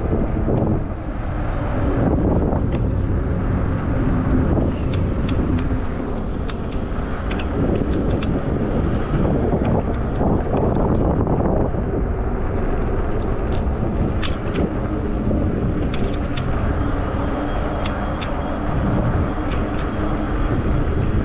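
Steady rumble of riding a 20-inch fat-tyre e-bike, picked up by a handlebar-mounted camera: tyre and wind noise, with scattered light ticks.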